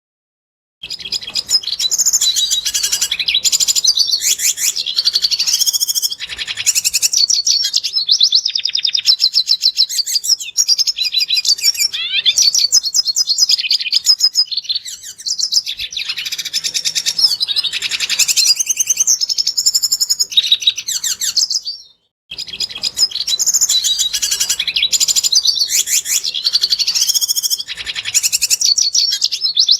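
Red siskin singing a fast, high-pitched twittering and chattering song in long unbroken phrases. The song starts a little under a second in and cuts out briefly about 22 seconds in before resuming.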